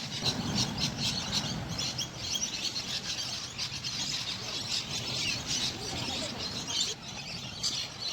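A flock of small birds chirping busily, many short high chirps overlapping without pause, over a low background rumble.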